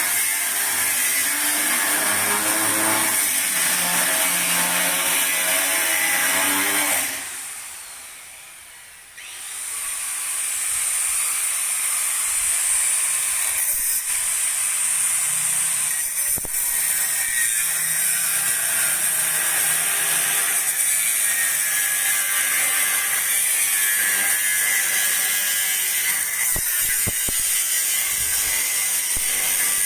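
A power tool running in a metalworking job. It cuts out for about two seconds roughly a quarter of the way in, then starts up again and runs on steadily.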